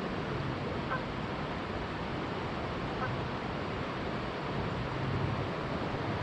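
Steady rush of a flowing river, with two brief faint water-bird calls, about a second in and about three seconds in.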